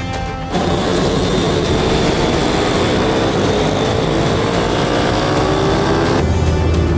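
Several YCF pit bikes' single-cylinder four-stroke engines running hard together, their pitches rising and falling as they accelerate. The engines cut in about half a second in and stop abruptly near the end, with music on either side.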